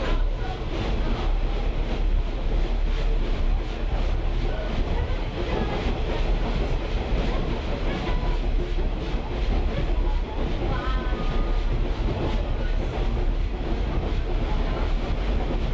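A caboose rolling along the track, its wheels rumbling steadily with the clickety-clack of rail joints.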